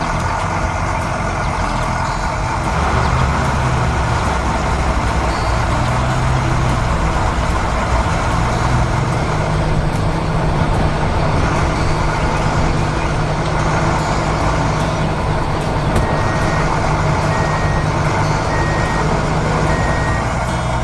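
Heavy truck engine running steadily with a deep rumble; about three-quarters of the way through, a reversing alarm starts beeping about once a second as the truck backs up.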